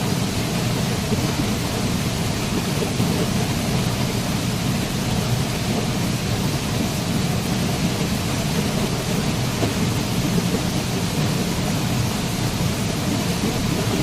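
Waterfall: a steady, unbroken rush of falling water, deepest and strongest in the low end.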